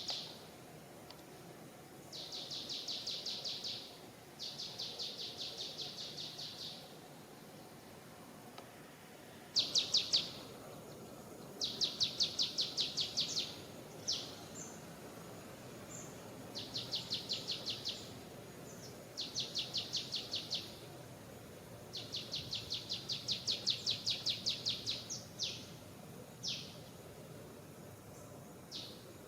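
A bird repeating a fast, high trill of about seven notes a second, in bursts of one to two and a half seconds, about ten times with short single notes between, over a faint steady background hum.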